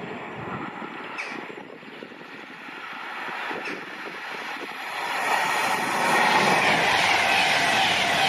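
A train approaching on the line: a rushing noise of wheels on rail that grows steadily louder, becoming loud about five seconds in.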